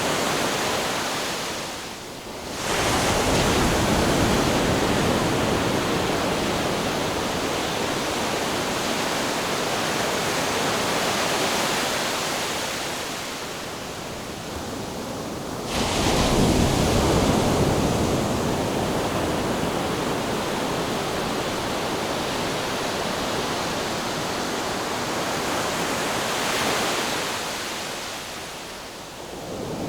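Ocean surf: waves washing in and drawing back in a steady rush, with a wave breaking more loudly about two seconds in and again about halfway through.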